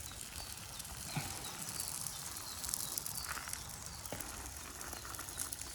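Small wood fire in a Bush Box stove crackling with scattered sharp pops, under a faint hiss of oil sizzling in the pan where egg and bread are frying.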